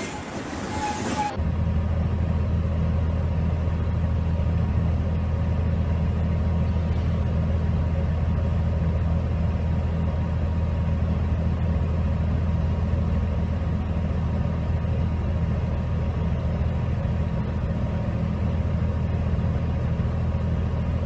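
Steady low drone of a running vehicle engine, even and unchanging, starting abruptly about a second and a half in after a brief burst of louder, mixed noise.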